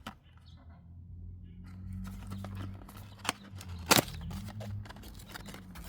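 A new oil filter being taken out of its cardboard box: packaging rustling with sharp clicks and taps, and one louder snap about four seconds in. A low steady hum runs underneath.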